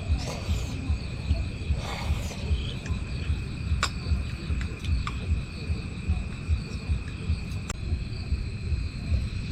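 Steady high drone of insects, such as crickets, over a strong, uneven low rumble, with a few short sharp clicks.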